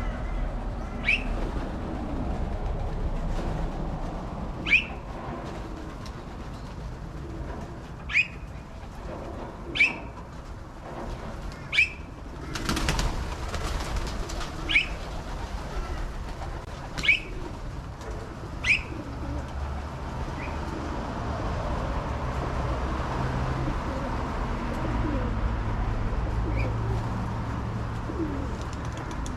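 Pigeons at a feed: faint low cooing in the later part and a short flurry of wings a little before halfway. About eight short, sharp high chirps, the loudest sounds, come every couple of seconds through the first two-thirds.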